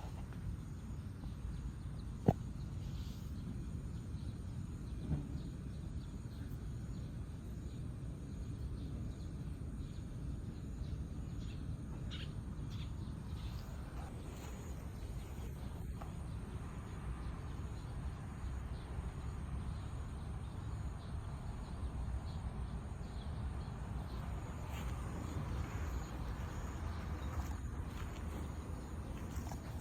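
Steady low outdoor background noise, with a single sharp click a couple of seconds in and a few faint brief sounds later.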